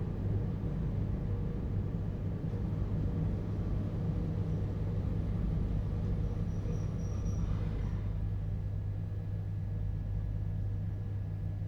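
Interior running sound of a JR Hokkaido 721 series electric multiple unit, heard inside a motor car with a Toshiba GTO-thyristor inverter: a steady low rumble of wheels on rail, with faint steady tones above it.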